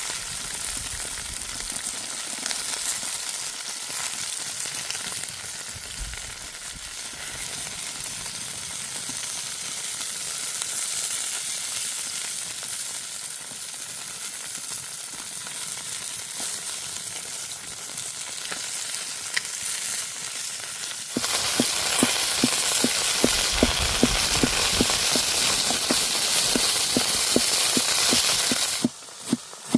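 Chicken frying in hot oil over a campfire, a steady sizzle. About two-thirds of the way in it jumps abruptly to a louder, harsher sizzle full of rapid crackling pops, which cuts off just before the end.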